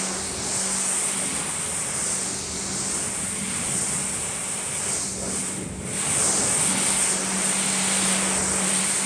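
Pressure washer running: a steady motor hum under the hiss of the spray, the hiss briefly dropping about five and a half seconds in.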